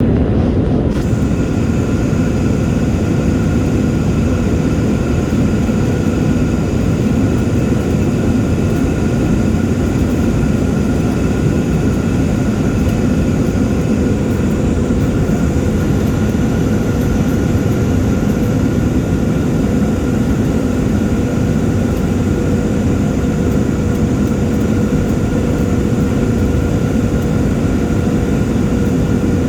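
Aircraft engines and rushing air heard from inside the passenger cabin in flight: a steady, unchanging noise with a few faint steady tones over it.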